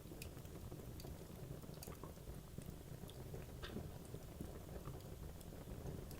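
Wood logs burning in a fireplace: a low steady rumble of the flames with scattered sharp crackles and pops from the wood.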